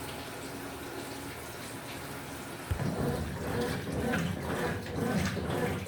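Water running and splashing in a washing machine tub. About halfway through there is a knock, and then the water sound grows louder and uneven, like sloshing.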